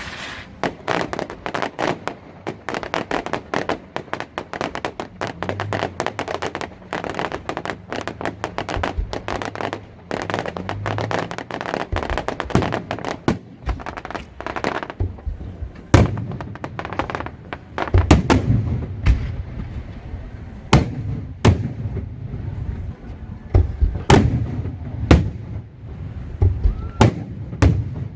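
Fireworks going off: a dense, rapid crackling for the first half, then louder separate bangs through the second half.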